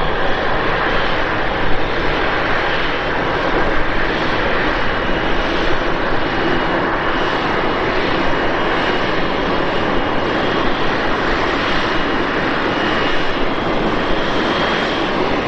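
Boeing 777 freighter's twin jet engines running: a steady, loud rush with a faint high whine on top.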